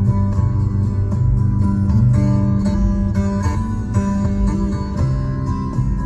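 Acoustic guitar playing an instrumental blues break between verses, picked and strummed in a steady rhythm over a bass line.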